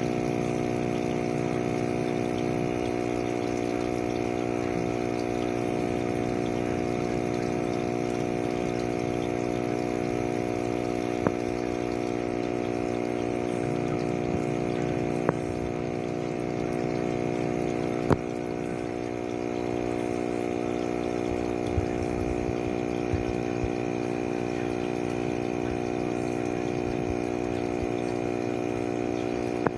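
Steady mechanical hum of a small motor running, with a few sharp clicks scattered through it.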